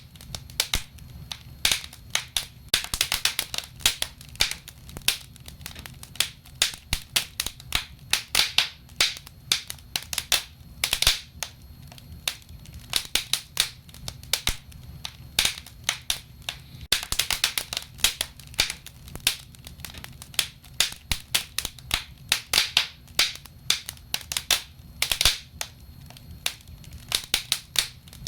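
Wood fire burning in a fireplace, crackling and popping constantly in irregular clusters of sharp snaps over a low steady rumble of the flames.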